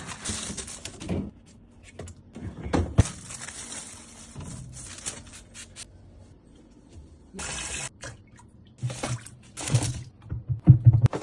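Water from a tap running and splashing in several short spells, as when rinsing fridge shelves or containers in a sink. Low knocks of items being handled come between the spells, loudest near the end.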